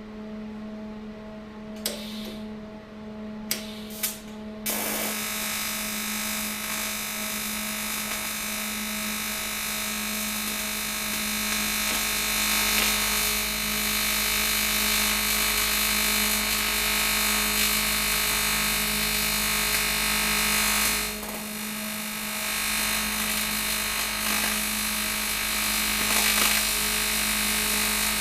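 AC TIG welding arc on cast aluminium. After a few sharp clicks, the arc strikes about five seconds in and runs with a steady harsh buzz and hiss. It drops off briefly about two-thirds of the way through, then carries on. The TIG machine's steady hum sits underneath throughout.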